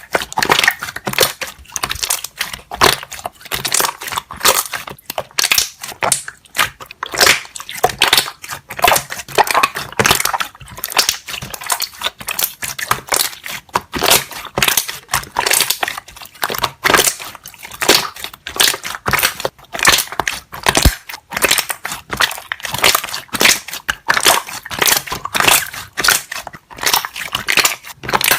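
Slime being squeezed and worked, its trapped air bubbles popping and crackling in a dense run of small pops, several a second.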